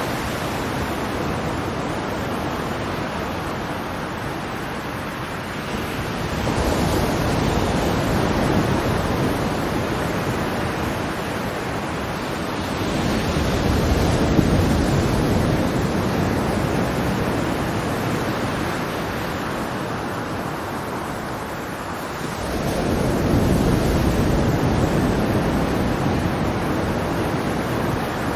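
Ocean waves washing in on the shore, a steady rush of surf that swells louder three times as waves break.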